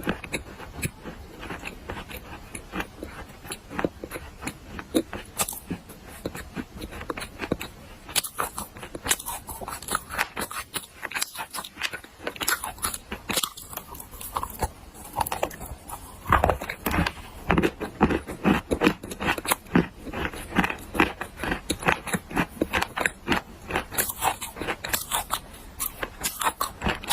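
Person biting and chewing hard black clay: a dense, irregular run of sharp crunches and crackles, getting busier and heavier about halfway through.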